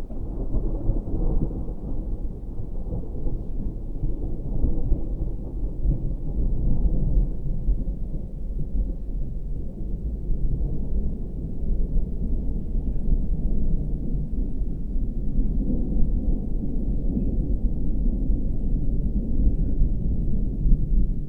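Thunderstorm: a continuous low rumble of rolling thunder that swells and eases without a break.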